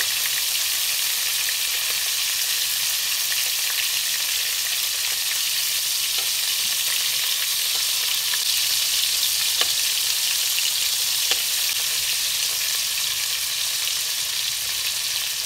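Shrimp frying in hot oil in a carbon-steel wok: a steady, high sizzle with a few faint clicks.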